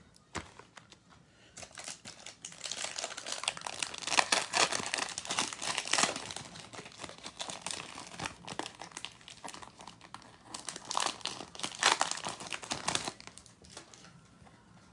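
Foil wrapper of a Panini Flux basketball trading-card pack crinkling and tearing as it is opened by hand. The crackling starts about a second and a half in, comes in uneven bursts and dies away shortly before the end.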